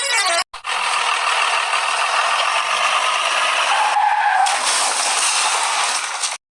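Steady, noisy vehicle-like rattling. It drops out briefly just after the start, changes about four and a half seconds in, and cuts off abruptly near the end.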